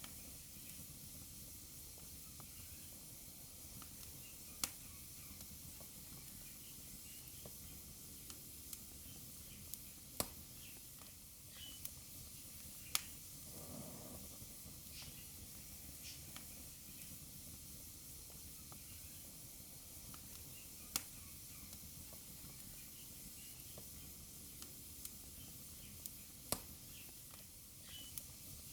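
Wood fire burning in a fireplace: a soft steady hiss with scattered sharp crackles and pops, a handful of them noticeably louder, and a brief soft whoosh of flame about halfway through.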